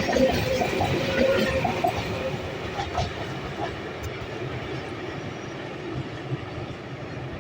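ICF MEMU electric train running over a rail bridge, its wheels clattering over the rail joints with a steady rumble that slowly fades as it moves away.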